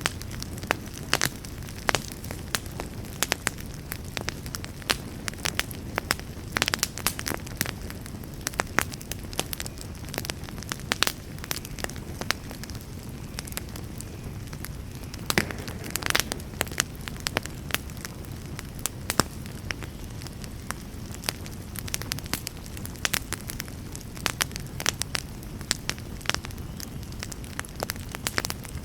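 Fire in a fireplace crackling, with a steady low rumble under frequent sharp pops and a denser run of louder pops about halfway through.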